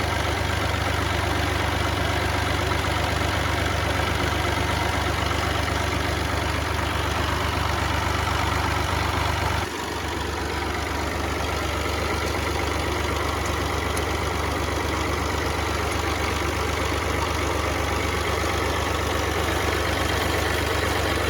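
Tractor engine idling steadily with an even, rapid firing pulse. The level dips briefly about ten seconds in.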